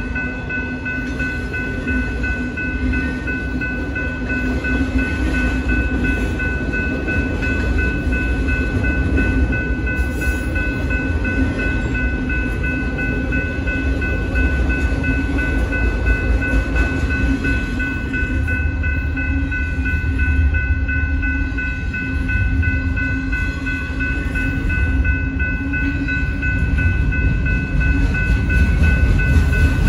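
BNSF freight train of autorack cars rolling through a grade crossing: a steady low rumble of wheels on rail, growing a little louder near the end. Over it runs a steady high ringing from the crossing's warning bell.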